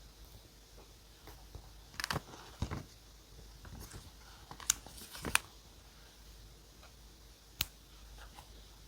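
Hands working with paper and stationery on a desk during journal decorating: scattered small clicks, taps and paper crinkles, a cluster around two to three seconds in, another around five seconds in, and one sharp click near the end.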